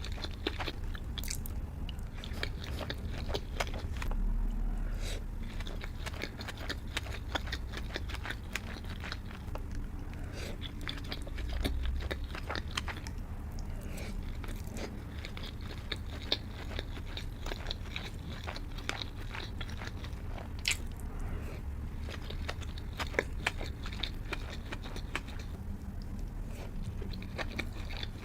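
Close-miked chewing and biting of sushi and sashimi: a steady stream of wet smacks and small crisp clicks.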